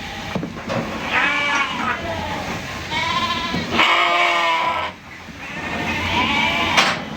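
Sheep bleating about four times, each call wavering in pitch and lasting up to a second, with a sharp click near the end.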